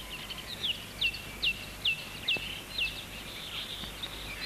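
A songbird calling: a run of about seven short, clear notes, each sliding downward, about two a second, over a steady outdoor hiss.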